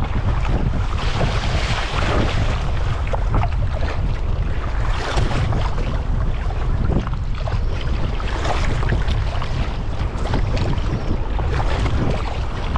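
Strong wind buffeting the microphone over choppy sea, with waves splashing irregularly against a sea kayak.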